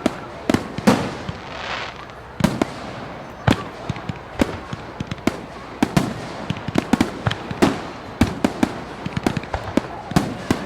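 Fireworks display: a continuous run of sharp bangs at uneven intervals, coming thicker in the second half, with crackling between them.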